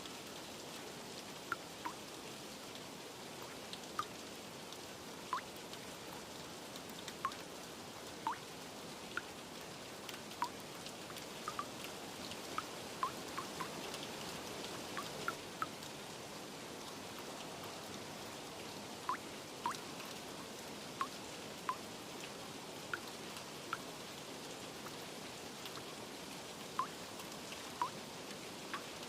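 Steady rain hiss with scattered water drops plinking irregularly, roughly one a second.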